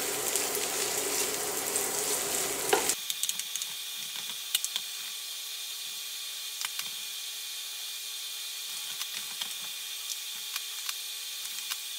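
Diced potatoes, carrots and lardons sizzling in an oiled frying pan, stirred and tossed with a wooden spatula, with scattered scrapes and knocks of wood on the pan. About three seconds in, the sizzle abruptly becomes thinner and quieter, with a faint steady tone underneath.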